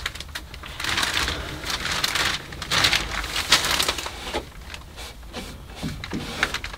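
A damp cloth wiping and scrubbing over a sanded wooden ceiling, in irregular rubbing strokes that are busiest in the first few seconds and turn into a few shorter swipes later.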